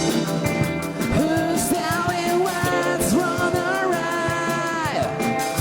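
Live band playing a rock song, with a singer's long sustained line that starts about a second in and drops away near the end, over a steady beat.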